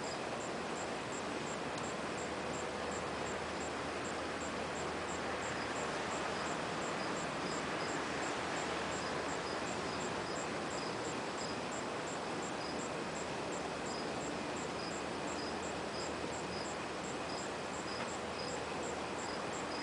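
Crickets chirping in a steady rhythm, two of them at different pitches, about two chirps a second from the higher one, over a steady hiss. No thunder is heard.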